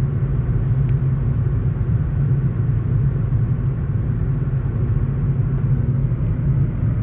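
Steady road and engine noise of a car at highway speed, heard from inside the cabin.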